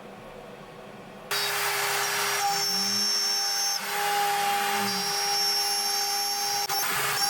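SOROTEC Basic Line 1005 CNC router milling wood. The steady whine of its spindle and the cutting noise start abruptly about a second in, with lower motor tones rising and falling as the machine moves.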